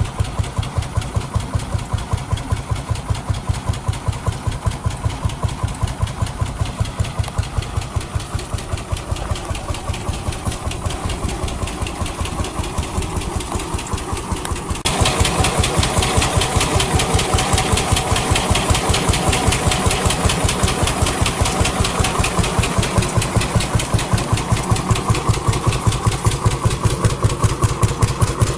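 Vintage engine running steadily with an even, rapid exhaust beat. About halfway through, the sound abruptly becomes louder and brighter.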